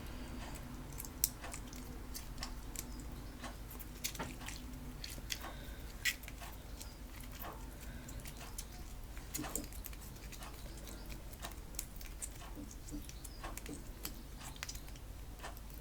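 Homemade PVA-glue slime being kneaded and pulled by hand, making small sticky squelches and clicks scattered throughout over a low steady hum. The slime is not yet holding together and breaks apart when pulled.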